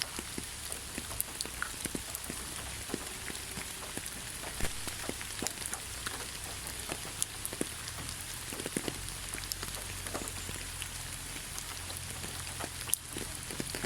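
Steady rain falling in a forest, an even hiss with many separate drops ticking close by at irregular moments.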